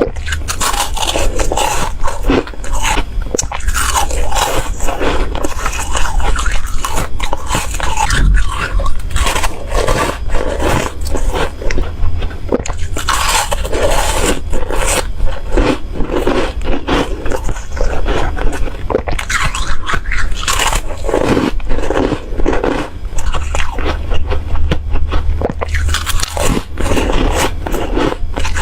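Close-up biting and chewing of crispy frozen foam, a continuous run of sharp, irregular crunches and crackles.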